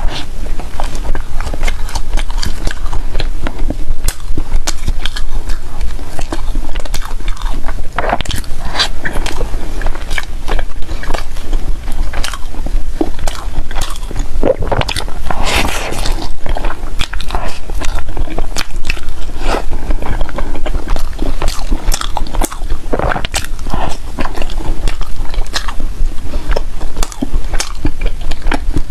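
Close-miked biting and chewing of bread, a continuous run of crackly mouth and crumb sounds.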